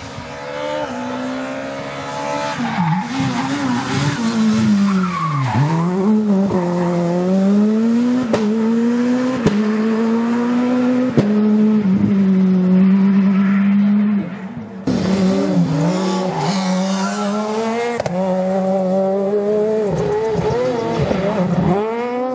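Rally car engine at high revs, the pitch dropping and climbing again with each gear change, with a few sharp pops. About two-thirds of the way in, the sound cuts abruptly to another stretch of a rally car at full throttle.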